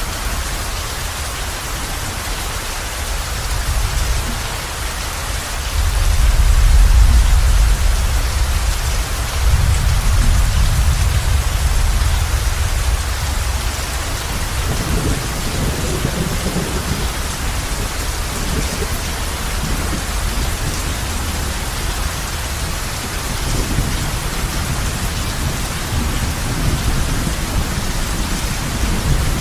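Heavy rain falling steadily on a roof, with low rolls of thunder. A long rumble swells about six seconds in and lasts several seconds, and shorter rumbles follow later.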